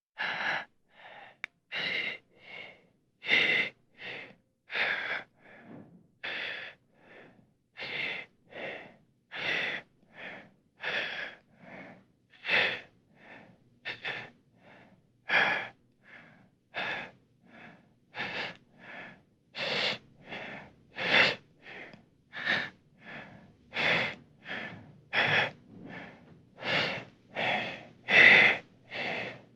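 Heavy, panting human breathing, one breath about every two-thirds of a second, louder breaths alternating with softer ones, starting abruptly after silence; a horror breathing sound effect.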